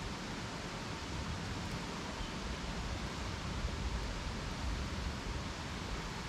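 Campfire burning with a steady rushing hiss and low rumble, without distinct pops or crackles.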